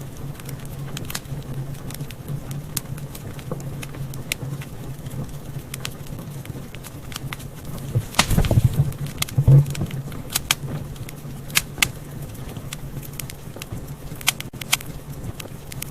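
Wood fire crackling in a fireplace: scattered sharp pops and snaps over a steady low rumble, with a louder flurry of pops about eight to ten seconds in.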